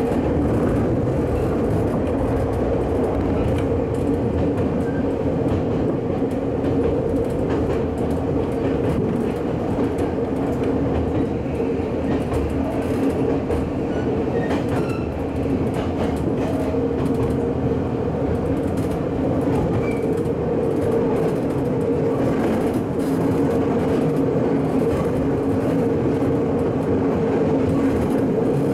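Electric commuter train running steadily between stations, heard from behind the driver's cab: a constant running hum with steady tones and the faint click of wheels over the rails.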